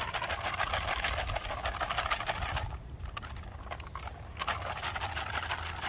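A plastic MRE beverage bag holding water and chocolate hazelnut cocoa powder being shaken hard to mix the drink: a rapid sloshing and crinkling rattle. It stops briefly about three seconds in, then starts again.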